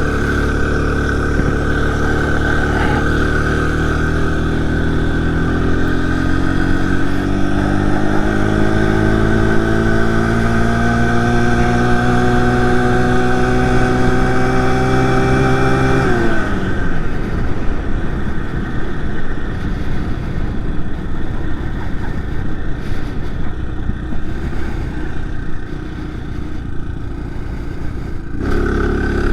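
Small 49cc four-stroke motorized-bicycle engine running at full throttle while pedaled uphill, its pitch rising slowly for about sixteen seconds; then the revs drop sharply and a rushing noise takes over, and the engine picks up again near the end.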